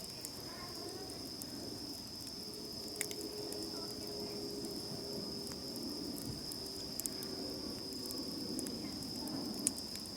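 Wood campfire crackling with a few sharp pops, over steady high-pitched chirring of autumn insects such as crickets.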